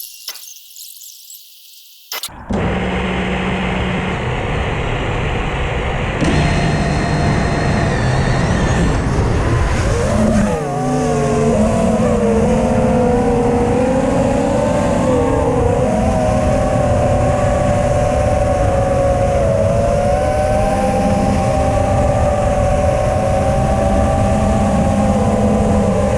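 FPV racing quadcopter motors and propellers whining, the pitch wavering up and down with the throttle. It starts loudly about two seconds in, after a brief quieter stretch. From about ten seconds in, several whines are heard together.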